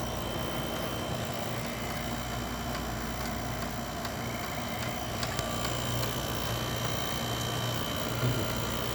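Two room air conditioners running, a steady hum and rush of air with a constant electrical drone.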